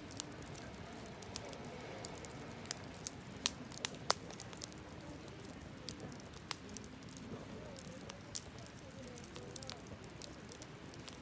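Wood campfire burning, with irregular sharp crackles and pops over a low steady hiss; the loudest pops come about three and a half and four seconds in.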